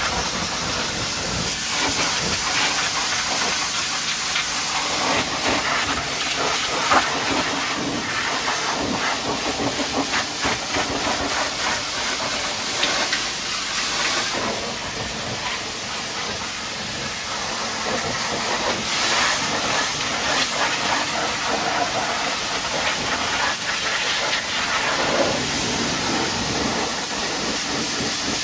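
High-pressure washer jet spraying water onto a truck, a loud steady hiss that surges and dips as the spray moves over the surfaces.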